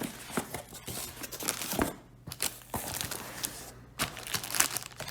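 Packaging crinkling and tearing as a parcel is opened by hand: irregular rustles and snaps, with a couple of short pauses.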